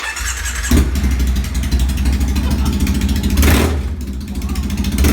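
Triumph Thruxton parallel-twin motorcycle engine started and running loud on open exhaust pipes with no silencers fitted, with a blip of the throttle about three and a half seconds in.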